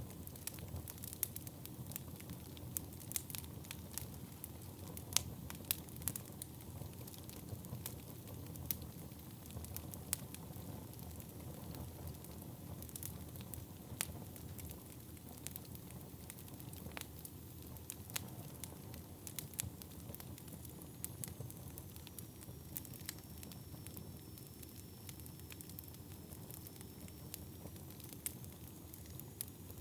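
Wood fire burning in a fireplace: a steady low rush of flames with frequent sharp crackles and pops from the burning wood. A faint high whistle comes in about two-thirds of the way through.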